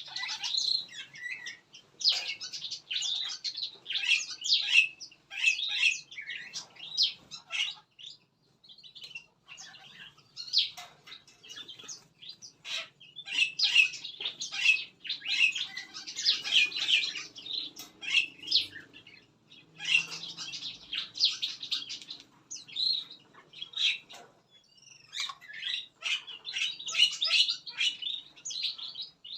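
Many small songbirds in a mixed aviary calling and chirping at once, in bursts with short pauses.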